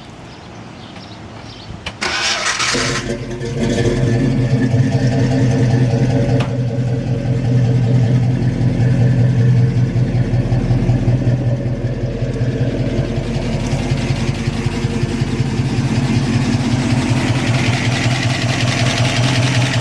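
Bored .030-over V8 with a 600 Holley carburettor and solid lifters being started: the starter cranks briefly about two seconds in, the engine catches and settles into a steady, pulsing idle, with the solid lifters part of what is heard.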